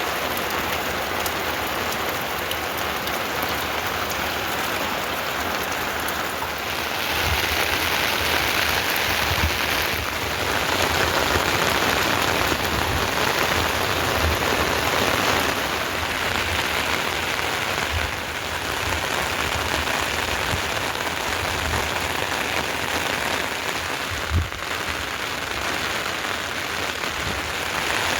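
Heavy rain falling steadily, growing heavier for several seconds in the first half. One sharp knock stands out a little before the end.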